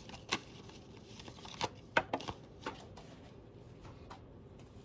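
Deck of oracle cards being shuffled by hand: a faint scatter of irregular snaps and taps, the sharpest about two seconds in.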